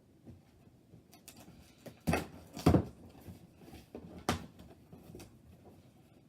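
Handling noises from a cardboard box being opened: scattered light knocks and scrapes, with loud thumps about two seconds in, shortly after, and again about four seconds in.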